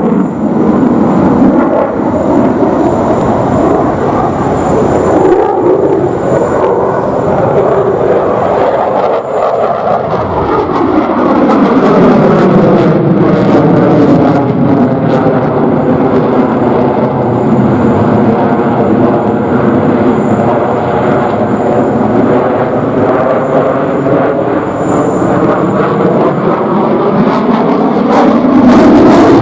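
Jet noise from an F-15QA's two General Electric F110 turbofans during a display flight. The noise is loud and continuous, with a slow sweeping, phasing sound from about a third of the way in as the jet passes, and it grows loudest near the end.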